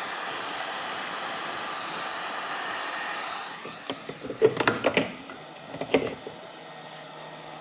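Electric heat gun blowing steadily, then switched off about three and a half seconds in, followed by a few sharp clicks and knocks as small parts and tools are handled on the bench.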